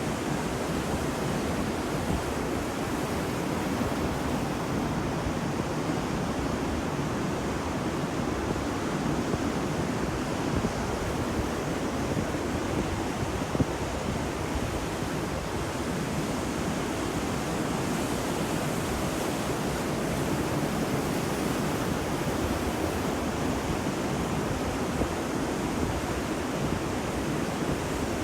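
Steady wash of sea surf breaking on a beach, a constant rushing noise with little rise and fall.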